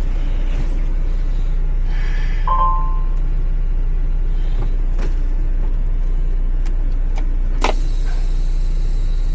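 Semi truck engine idling with a steady low hum. A short beep sounds about two and a half seconds in, and a sharp click comes near the end, followed by a faint steady high whine.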